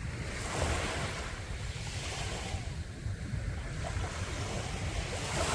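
Sea waves breaking and washing up on a sandy beach, the hiss swelling about every two seconds, with wind rumbling on the microphone.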